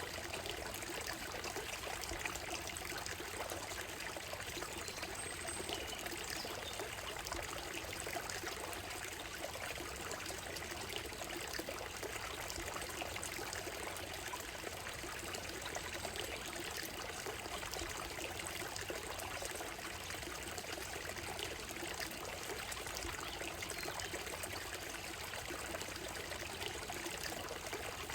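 Shallow stream running over stones and a gravel bed: a steady, even rush of trickling water.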